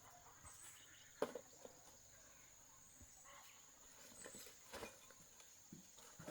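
Near silence with a faint steady high-pitched insect drone, broken by a few faint clicks and knocks.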